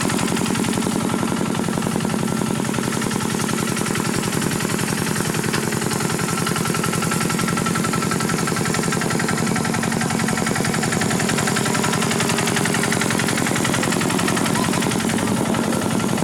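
The small diesel engine of a Khmer farm tractor running steadily, with a rapid, even chugging.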